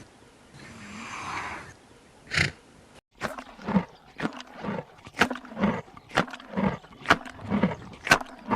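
An animal's breathy call swelling and ending in a sharp snort. About three seconds in the sound cuts off suddenly, and a quick run of short clicks and thumps follows.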